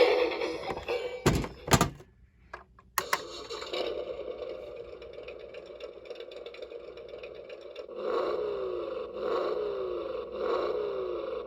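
Toy truck's built-in electronic music fading out, then two handling knocks on the plastic body and a click. A softer steady electronic sound follows, with short falling tones repeating about twice a second in its last few seconds.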